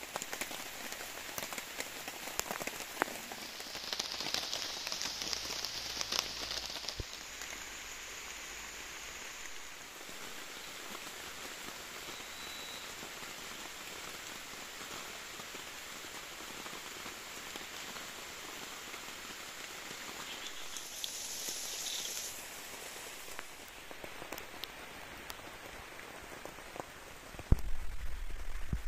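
Rain falling steadily, an even hiss with scattered drop ticks; twice a brighter high hiss rises over it for a second or two, and a low rumble comes in near the end.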